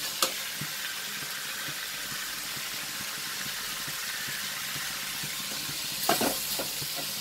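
Sliced onions and tomatoes sizzling in oil in a metal kadai, a steady hiss as they sauté down to soften. A metal spoon stirs and scrapes against the pan, loudest about six seconds in.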